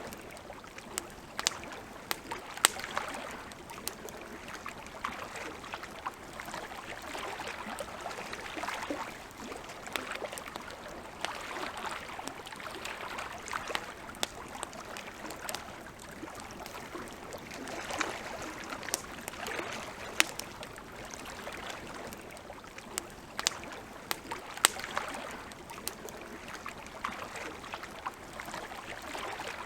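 Campfire burning with irregular sharp crackles and pops over a steady hiss that swells and eases every few seconds.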